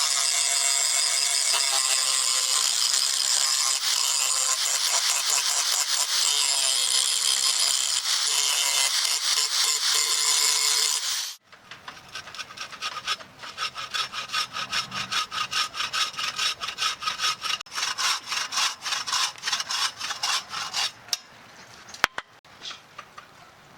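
Steady rasping of a tool cutting or abrading wood for about eleven seconds, stopping abruptly; then quicker back-and-forth strokes at about four a second, which fade near the end.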